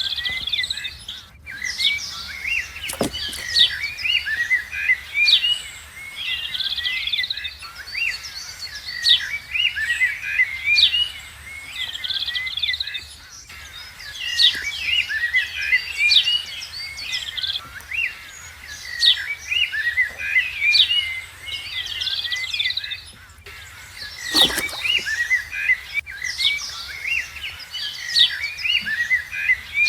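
Many small birds chirping and calling at once, a dense, unbroken chorus of quick high chirps and short whistles. A dull knock sounds about three seconds in and again about twenty-four seconds in.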